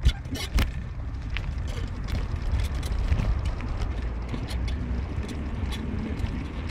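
Car driving, with a steady low road rumble inside. A loud knock comes at the very start and another about half a second later, followed by scattered clicks and rattles, as from bumps in the road.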